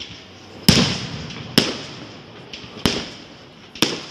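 Four loud firework bangs about a second apart, each sharp crack trailing off in an echo.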